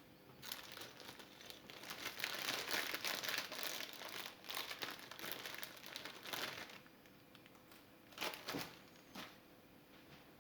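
Crinkling and rustling, as of plastic or packaging being handled, for several seconds, followed by a few separate clicks near the end.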